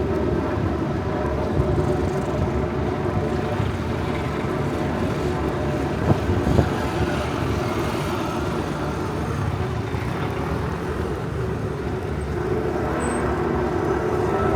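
Street traffic: a motor vehicle running close by, steady throughout, with two short sharp knocks about six seconds in.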